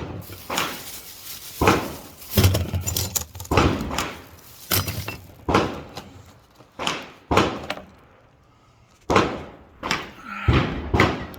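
Gunshots from other shooters on a firing range, about a dozen sharp reports at irregular intervals roughly a second apart, each with a short echoing tail.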